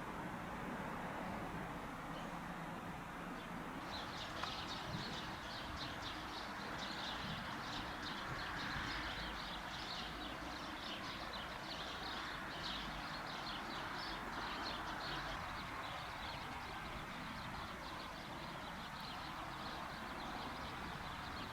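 Small birds chirping rapidly and continuously, starting about four seconds in, over a steady low background rumble.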